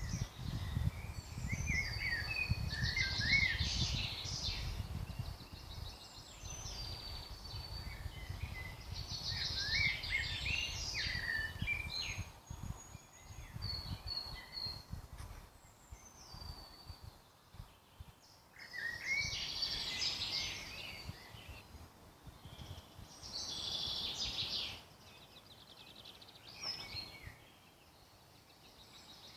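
Songbirds singing in short, varied phrases of a couple of seconds each, separated by pauses. A low rumble underlies the first few seconds.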